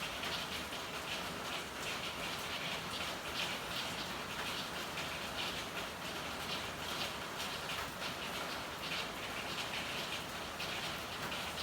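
Steady rain falling, a constant hiss with an uneven patter of drops hitting hard surfaces.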